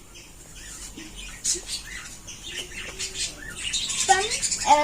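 Faint, scattered bird chirps, short rising calls, with a child's voice starting near the end.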